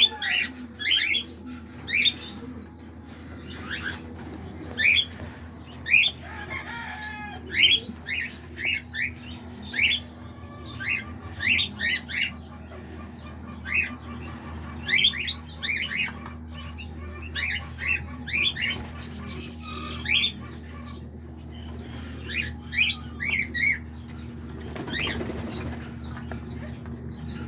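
Small caged parrots (parakeets, lovebirds and cockatiels) chirping: sharp, short chirps come in quick clusters throughout, over a steady low hum.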